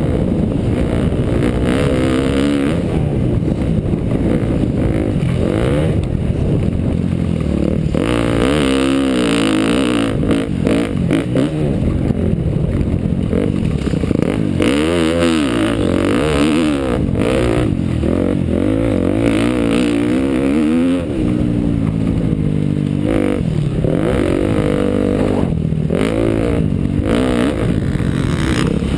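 2012 KTM dirt bike's engine being ridden, revving up and down over and over, its pitch rising and falling with the throttle.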